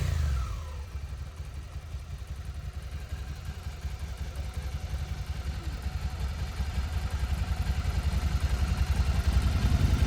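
Suzuki SV650's V-twin engine through its stock exhaust, a rev dying away in the first second, then settling into a steady, pulsing idle that grows slowly louder toward the end.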